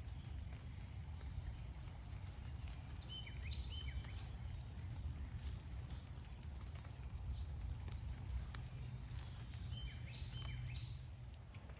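Backyard birds chirping in two short bursts of quick, stepped high notes, one about three seconds in and one near the end, over a steady low outdoor rumble with a few faint clicks.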